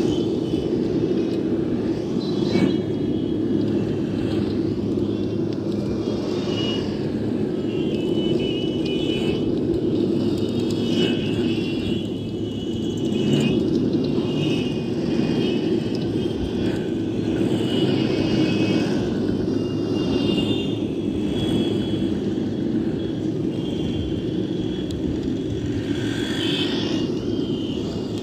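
Car cabin road noise while driving: a steady low rumble of engine and tyres, with fainter high tones coming and going above it.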